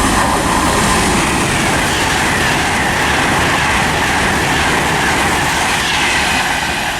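Class 390 Pendolino electric train passing through the station without stopping: a steady loud rush of wheels on rail and air, with a faint whine that slowly falls in pitch as it goes by, easing a little near the end.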